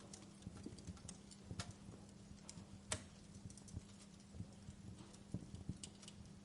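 Wood fire crackling: irregular sharp pops and snaps from burning logs, one louder pop about three seconds in, over a soft hiss and a low steady hum.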